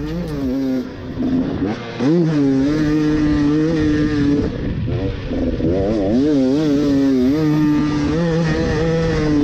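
Husqvarna TE250i two-stroke enduro bike engine under riding load, its pitch sweeping up and down as the throttle is worked, between stretches held at a steady high note.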